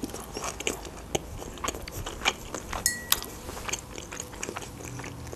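Close-miked chewing of a mouthful of shawarma wrap, with irregular soft wet mouth clicks and smacks.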